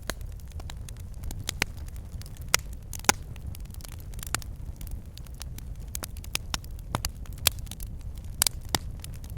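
Wood fire burning in a fireplace: logs crackling and popping at irregular intervals over a steady low rumble of the flames, with a few sharper pops.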